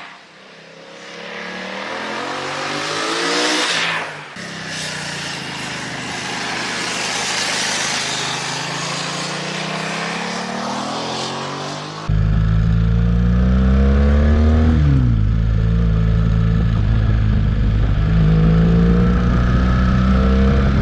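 BMW F900 XR parallel-twin motorcycle engine accelerating, its pitch climbing through the revs over a hiss of wind and road noise. About 12 seconds in, the sound cuts abruptly to a louder, closer engine note that holds mostly steady, with a quick dip and rise in pitch a few seconds later.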